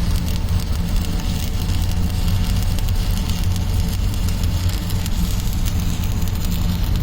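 Electric arc welding on plate: the arc gives a steady crackle and sizzle, over a low steady hum.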